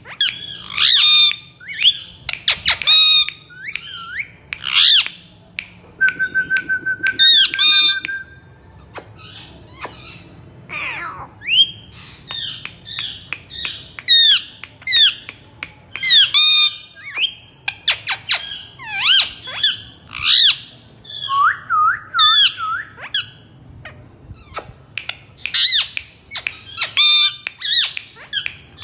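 Pet parakeet squawking over and over in short, loud, shrill calls, with a held whistle about six seconds in and a wavering whistle past the twenty-second mark.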